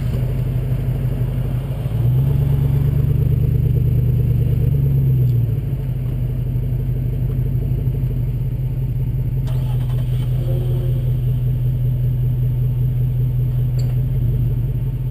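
2005 Jeep Grand Cherokee's 5.7L Hemi V8 running through a Borla aftermarket exhaust with a steady low rumble. About two seconds in, the engine note rises a little and gets louder for about three seconds, then drops back to the steady lower note.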